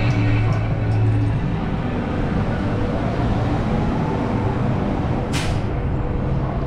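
A heavy road vehicle's engine rumbling with a low hum, and a short hiss of air about five seconds in.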